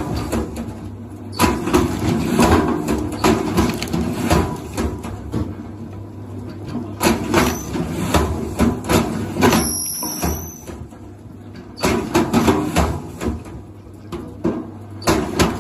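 Irregular knocks and clatter, as of things being handled and set down, with a short high chirp that falls in pitch about ten seconds in.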